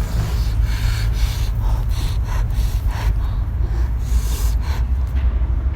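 Repeated sharp gasping breaths and sniffs, a quick stroke every half second or so, from someone eating chili-hot food, over a steady low rumble.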